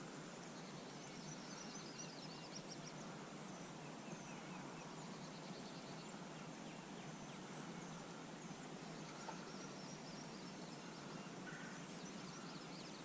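Faint outdoor ambience with small birds chirping and wild turkeys clucking far off.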